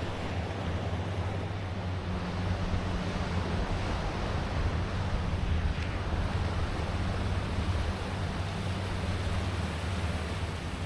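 Waves washing on a beach, with wind buffeting the microphone and a steady low drone underneath.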